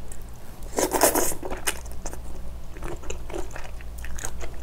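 Close-miked eating sounds: a mouth chewing and biting into soy-marinated raw shrimp (saeujang), with many small wet clicks and a louder burst about a second in.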